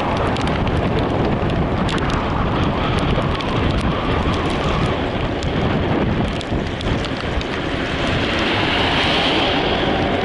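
Steady road and wind noise of a moving vehicle, with scattered light ticks and clicks.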